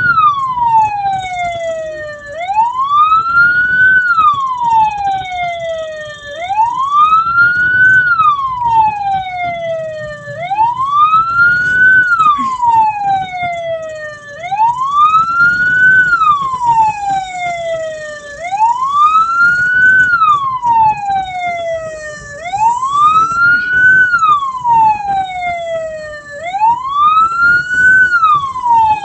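Hearse's electronic siren on a wail, its pitch rising quickly and then falling slowly, repeating about every four seconds.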